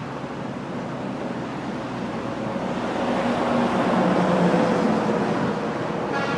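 Steady wind rush and road noise of a motorcycle riding at highway speed, with a faint engine drone, swelling louder about halfway through and easing near the end.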